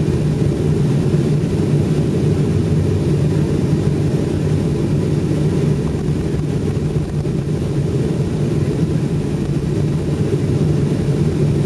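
Steady low rumble inside an airliner's cabin on the ground just after landing, engine and air-system noise with a constant hum, unchanging throughout.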